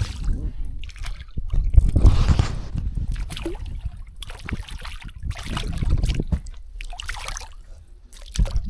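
Water sloshing and trickling, with gusts of wind buffeting the microphone.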